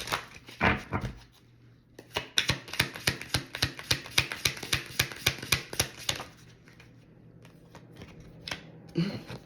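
Tarot cards being shuffled by hand: a quick run of card flicks and clicks, about six or seven a second, lasting about four seconds from roughly two seconds in.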